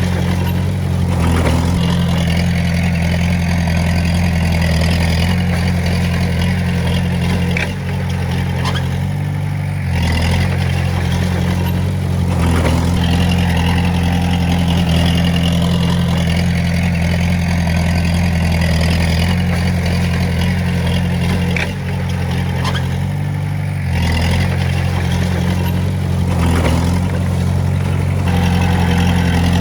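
Komatsu D20A bulldozer's diesel engine running steadily, its note shifting every several seconds as the load changes, with a couple of sharp clanks.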